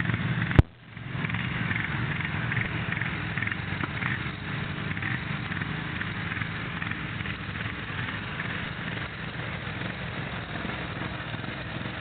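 Polaris 850 XP's engine running steadily while riding. About half a second in there is a single sharp click, and the sound drops out briefly before the engine sound returns.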